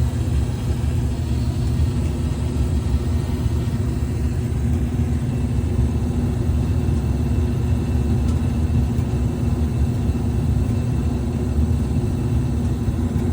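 1978 gas forced-air furnace running: a steady low rumble of the burner and blower with a constant hum.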